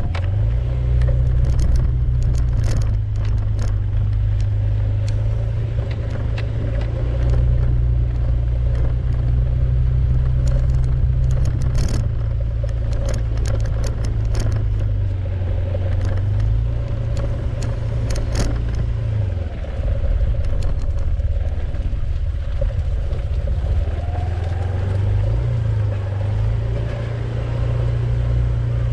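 A vehicle driving, with a steady low engine and road rumble whose pitch shifts now and then. Scattered sharp knocks and rattles come over it.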